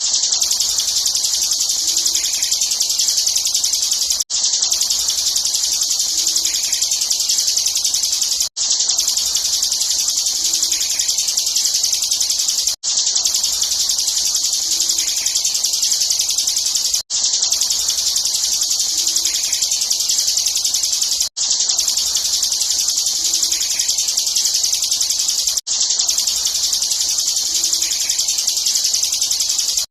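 Bar-winged prinia (ciblek) singing a rapid, unbroken high-pitched chatter, a short recording looped with a brief break about every four seconds.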